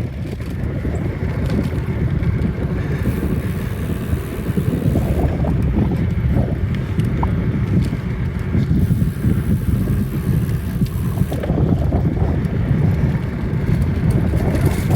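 Wind buffeting a phone's microphone on a moving bicycle: a steady low rumble that rises and falls a little, with faint scattered ticks above it.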